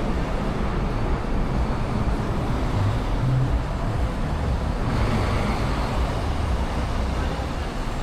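Steady rumble of city street traffic, cars and other vehicles passing.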